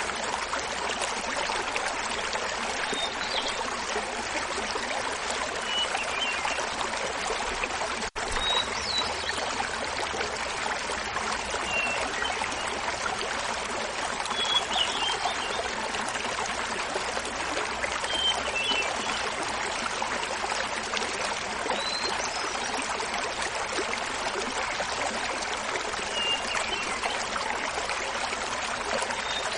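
Small mountain waterfall splashing steadily, with a hermit thrush singing short phrases every few seconds over it. The whole sound cuts out for an instant about eight seconds in.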